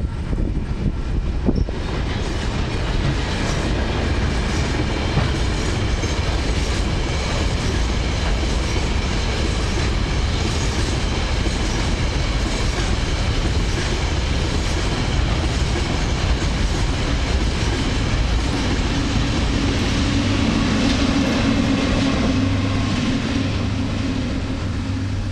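A long train of cement hopper wagons rolling past, with steady wheel clatter and rumble on the rails. Near the end a steady low diesel engine hum joins in as the trailing locomotive passes.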